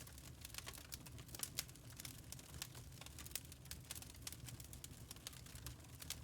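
Wood fire crackling in a fireplace: many small, irregular pops and snaps over a steady low rumble of the flames.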